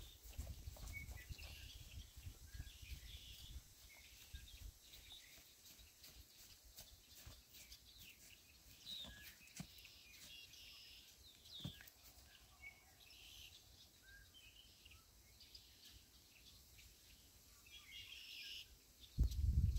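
Faint bird chirps and short calls scattered through quiet outdoor air. A low rumble sits under the first few seconds, and a sudden louder low rumble of microphone noise comes in near the end.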